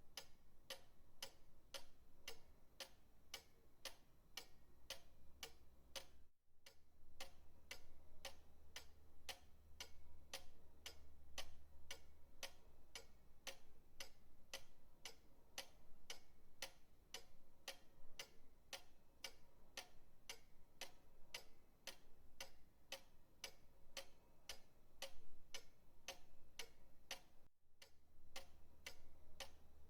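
Pendulum clock ticking steadily, about two ticks a second, with two short breaks where the sound drops out.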